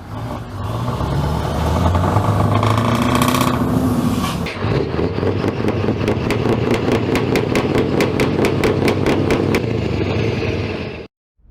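A truck engine running and rising in pitch for a few seconds, then a steady engine sound with a rapid, even clicking about five times a second; the sound cuts off abruptly near the end.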